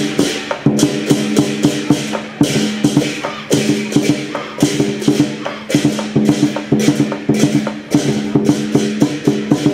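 Lion dance percussion band playing a fast, driving beat: rapid drum strikes and cymbal crashes over a sustained ringing tone.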